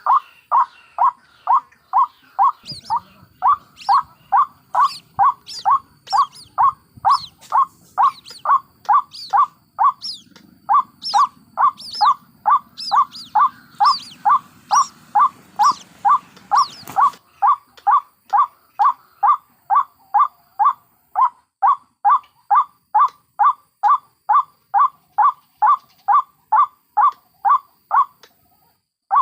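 White-breasted waterhen calling: a single note repeated steadily about twice a second. For about the first half, a second series of higher, thinner falling notes runs alongside it. The calls pause briefly near the end.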